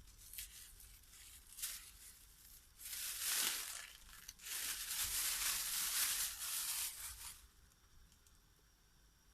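Thin plastic bags rustling and crinkling as boiled beetroot is packed into them. There is a short rush of crinkling about three seconds in, then a longer spell of about three seconds.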